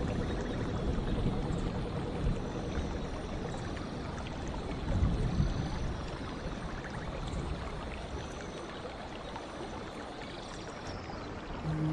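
Water running steadily in a stream.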